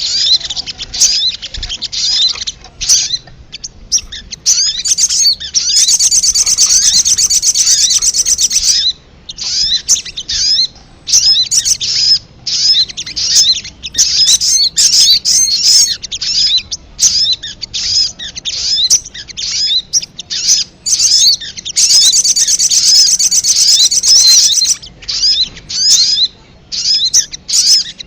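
Sogok ontong (sogon, little spiderhunter) calling noisily in a rapid series of short, high chirps. Twice it breaks into a few seconds of very fast, continuous chattering.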